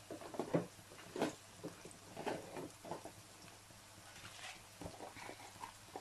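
Sliced onions and cumin seeds frying in hot oil in a pan, with irregular crackles and spits over a faint sizzle.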